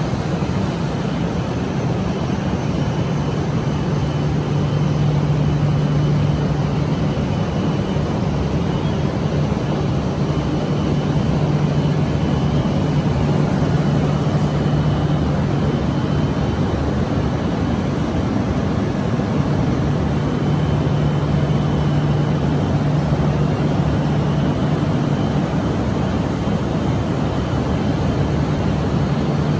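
Shinkansen train standing at the platform, its onboard equipment giving a steady low hum over constant noise, with a faint high tone that comes and goes.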